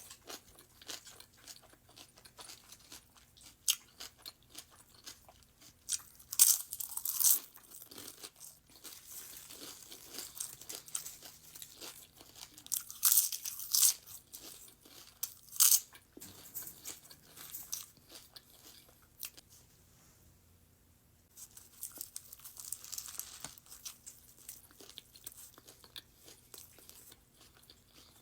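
Close-miked eating of a turkey sandwich on a croissant: biting and chewing, with the flaky crust crunching and crackling. Several louder crunching bites come through it, and there is a short pause about two-thirds of the way in.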